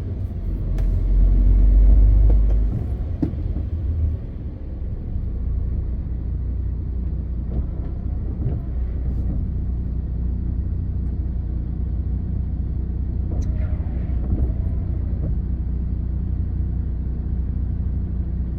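MAN TGX 520 truck's inline-six diesel engine running while driving, a steady low rumble with road noise. The rumble is louder for the first couple of seconds, then settles to an even drone.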